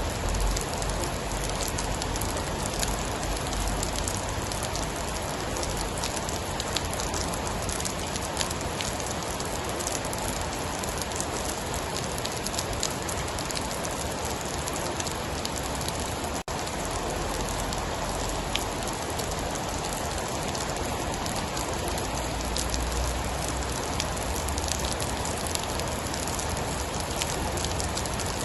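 Steady heavy rain with a dense patter of drops, and a low rumble at the start and again about three-quarters through. The sound cuts out for an instant a little past halfway.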